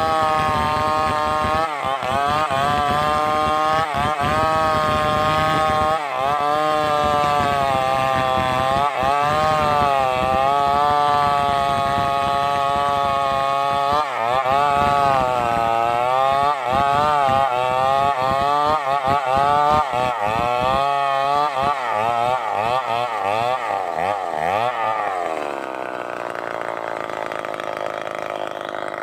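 Stihl 038 two-stroke chainsaw running at full throttle while cutting wood, its pitch dipping again and again as the chain bogs in the cut. Near the end the revs fall away.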